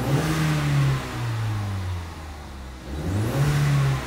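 Ford 2.3 L EcoBoost turbocharged four-cylinder in a 2017 Mustang revved twice in park, heard inside the cabin. It blips to about 4,000 rpm at the start, with the turbo making about 6.6 psi of boost, and drops back after about a second. A second rev to about 4,000 rpm follows near the end, with a high rising whistle as it climbs.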